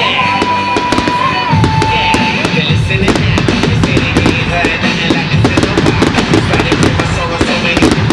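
Fireworks bursting and crackling in quick succession over loud music with a heavy beat.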